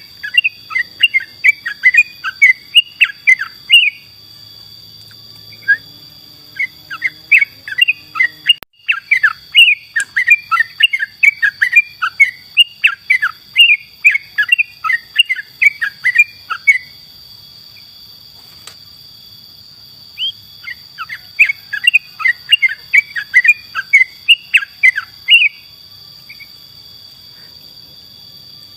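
Yellow-vented bulbul (trucukan) singing in lively bouts of quick, bubbly chirping phrases, with pauses between the bouts. A steady high-pitched insect-like drone runs underneath.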